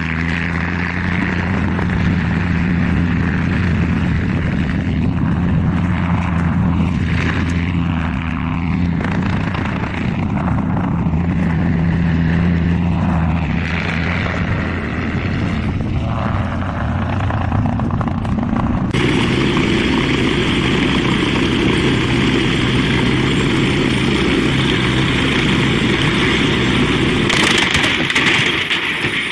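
Propeller aircraft engine running steadily, with some rising and falling pitch in the middle. About two-thirds of the way through it cuts abruptly to a different, noisier aircraft engine sound.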